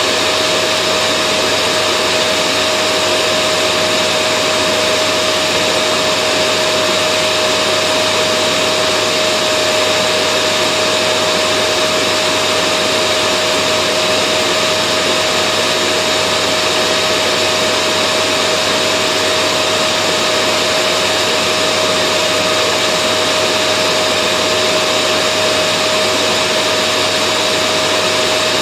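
Vacuum cleaner motor running continuously at a steady, unchanging level, with a constant whine over the rushing air noise, used as white noise for sleep.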